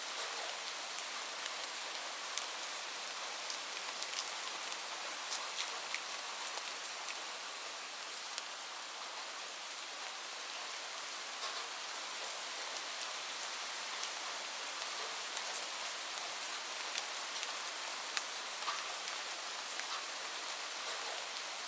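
Steady rain falling, an even hiss with scattered individual drops ticking sharply on a nearby surface.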